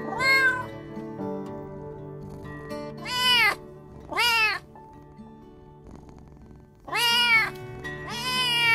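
Domestic cat meowing five times: one at the start, two close together mid-way and two near the end, each call rising then falling in pitch, over soft background music.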